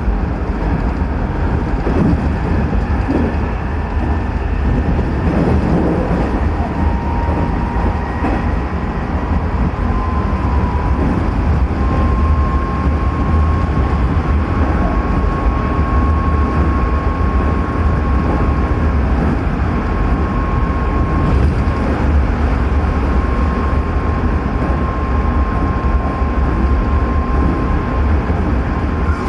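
Running sound of a Hanshin 9000 series electric train with Mitsubishi GTO-VVVF traction equipment: a steady low rumble of wheels on rail with a whining drive tone that rises slightly and then holds level.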